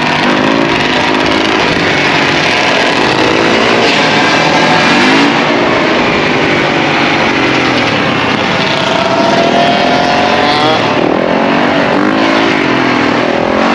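Several dirt bike engines revving up and down, overlapping one another. About eight seconds in, one is held at high revs for a couple of seconds, its pitch creeping upward.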